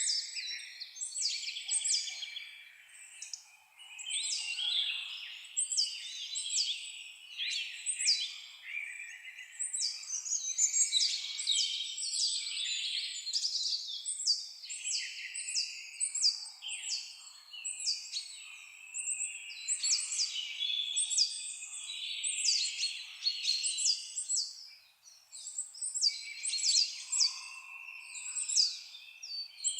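Several birds singing at once: a dense chorus of quick, high-pitched chirps and trills overlapping one another. It thins briefly a little over three-quarters of the way through.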